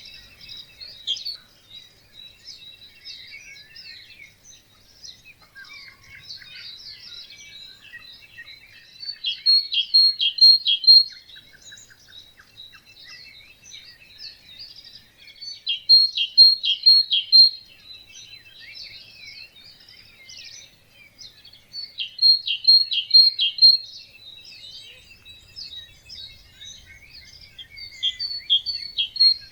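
Many songbirds singing in a morning chorus. One nearer bird repeats a loud, short phrase of about four quick notes roughly every six seconds over the continuous twittering of the others.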